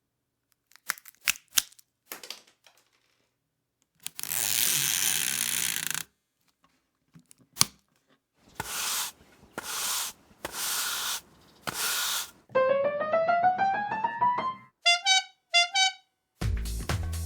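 A run of separate sound effects of the kind used in a listening quiz. First come a few clicks and a hiss of about two seconds, then four short bursts of hissing noise and a tone that rises steadily. A few short chirps follow, and music with a heavy beat starts near the end.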